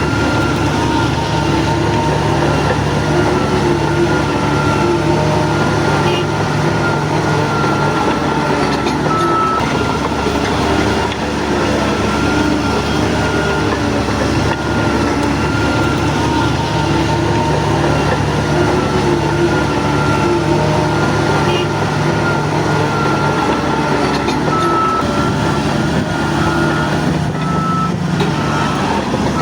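Shantui DH17 C3 Pro crawler bulldozer working, its diesel engine running under load with the steel tracks clanking and a steady high whine over it. The deep engine note drops back and picks up again a few times.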